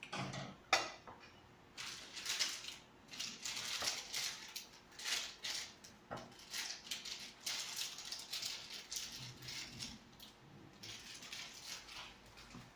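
Close-up eating sounds: chewing and mouth noises coming in short, irregular bursts.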